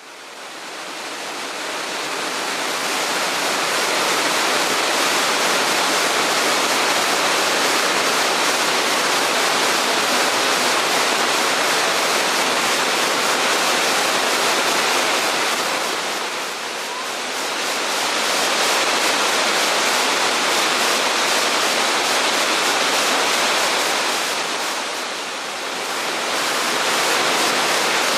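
Waterfall: a steady, loud rush of falling water that fades in over the first couple of seconds and dips briefly twice in the second half.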